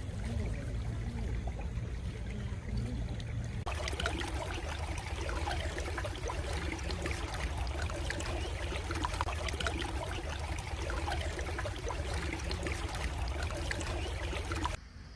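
Flowing stream water trickling and rushing steadily; about four seconds in it switches to a louder, brighter stretch of rushing water, which cuts off abruptly just before the end.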